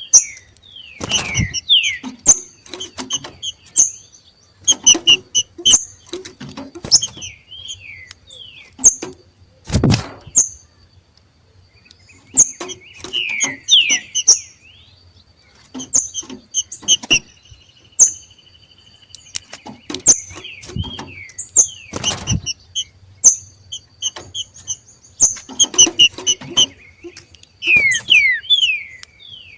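Two green-winged saltators (trinca-ferro) making their 'macheado' calls: irregular clusters of sharp chips and quick downslurred notes, with a buzzy trill about halfway through. A few loud, sharp knocks stand out, about a second in, near the middle and about two-thirds through.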